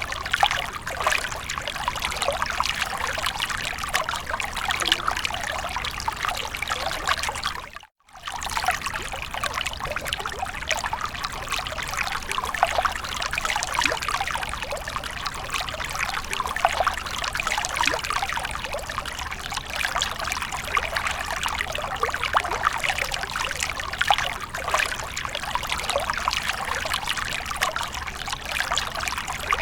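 Fountain water falling and trickling in a steady splashing patter. It cuts out for a moment about eight seconds in.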